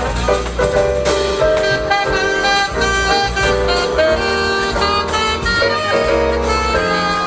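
Live jazz combo playing: a held saxophone or brass melody line over acoustic bass, piano and drums.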